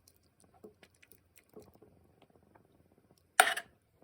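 A cooking utensil stirring chicken pieces around in a pan of adobo sauce, with faint scattered clicks and scrapes. About three and a half seconds in comes one loud, short clatter of the utensil against the pan.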